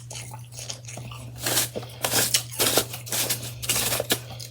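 Freshly shaved ice chewed close to the microphone: a run of soft, crisp crunches, thickest from about a second and a half in, over a steady low hum.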